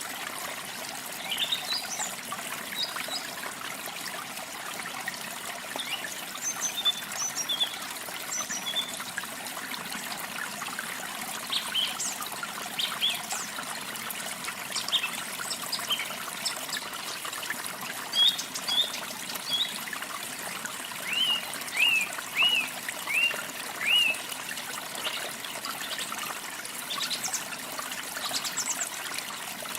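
Small songbirds chirping over a steady trickle of running water. Short scattered chirps come throughout, and past the middle a run of five louder arched notes stands out above the water.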